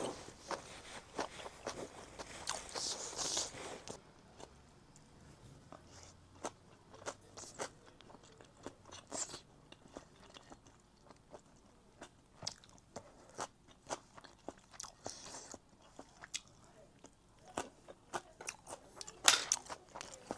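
Close-up chewing and crunching of food, with scattered sharp clicks; a louder click comes near the end.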